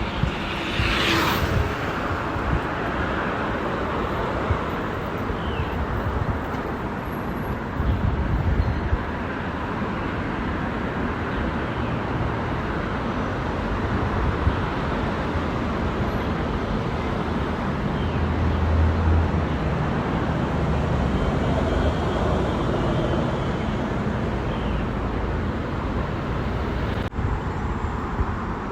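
Steady road traffic noise heard while riding a bicycle, with a continuous low rumble and a short hiss about a second in. A low vehicle hum swells about two-thirds of the way through.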